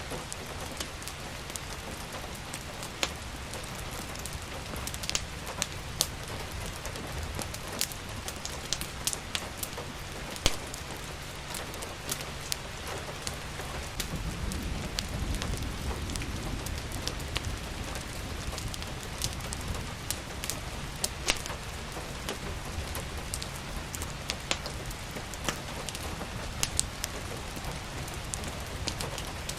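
Steady rain with frequent sharp crackles and pops from a wood fire burning in a fireplace. A low rumble swells briefly about halfway through.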